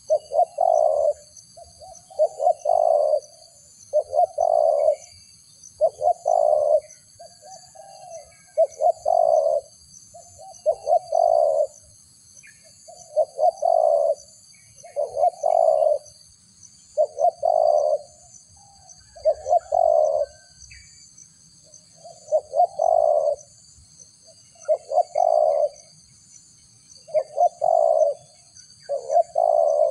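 Dove-like cooing lure call used to attract birds for trapping, repeated about every two seconds. Each call lasts about a second and opens with a few quick clicks.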